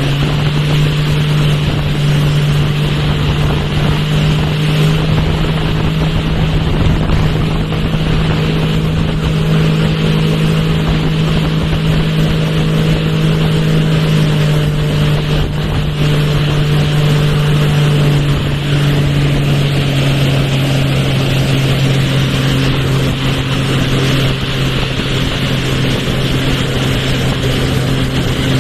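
Motorboat engine running steadily at speed, a constant low drone, with wind buffeting the microphone.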